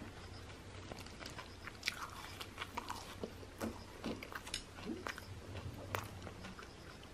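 A person chewing food close to the microphone, with irregular small crunches and wet mouth clicks. The sharpest come about two seconds in and again about six seconds in.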